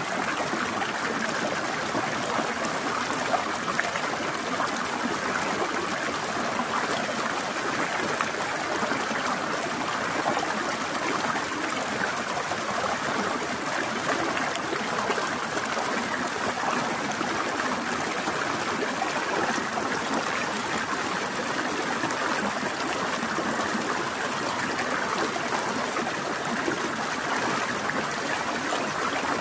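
Shallow stream of water flowing and trickling over rocks, a steady rushing and babbling.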